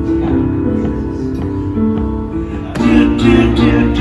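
Live instrumental music with sustained chords and no singing, played by a small live act; it grows louder with fuller strummed chords about three seconds in.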